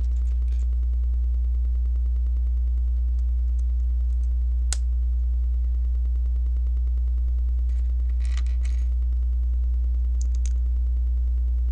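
Small plastic clicks and brief rustles of Lego bricks being handled and pressed together, including one sharp click about five seconds in and a short clattery patch near the eight-second mark. A steady low electrical hum underlies it all and is the loudest sound.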